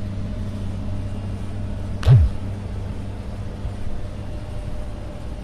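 Steady low rumble with a low hum, and one loud thump about two seconds in.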